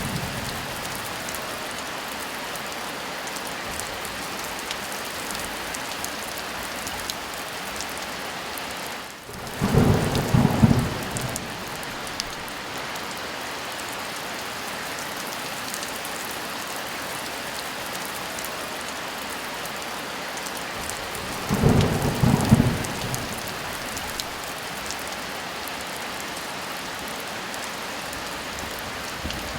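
Steady heavy rain hissing, with two short claps of rolling thunder, one about ten seconds in and another about twenty-two seconds in.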